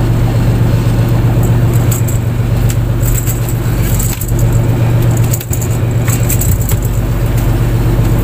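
Fishing boat's engine running with a steady low hum, with scattered light clicks and rattles over it.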